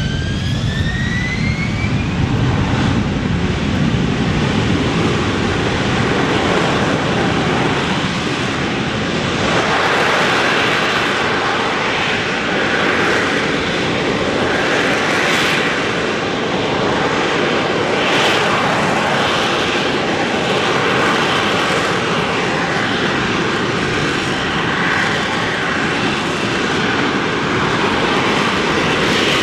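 AV-8B Harrier II+ jet engine (Rolls-Royce Pegasus turbofan) running loud during its flight demonstration, its whine rising in pitch over the first two seconds, then a steady, dense jet noise.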